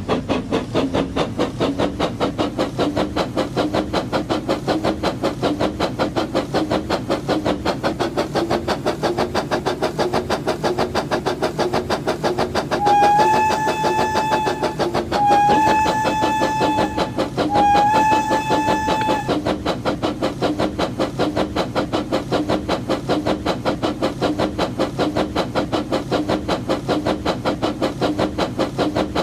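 Labo toy brick train running with a steady, rapid rhythmic chugging. Its pitch rises slightly at the start. About halfway through, a whistle gives three toots of about two seconds each.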